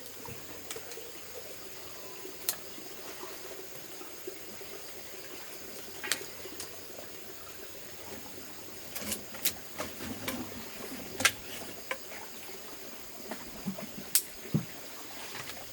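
Water trickling and splashing over a steady hiss, with scattered sharp clicks and knocks at irregular intervals.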